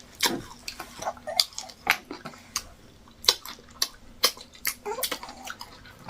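Close, wet eating sounds of fufu with vegetable soup: irregular mouth smacks, slurps and small clicks, several a second.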